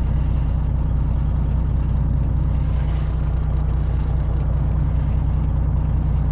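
Semi truck's diesel engine running steadily at low speed as the truck creeps back into a loading dock.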